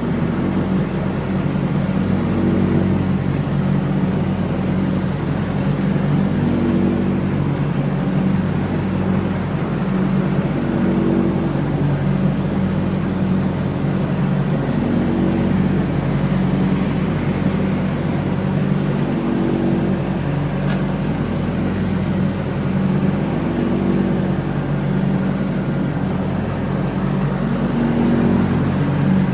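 John Deere X304 lawn tractor's engine running steadily while mowing, its note wavering slightly every few seconds.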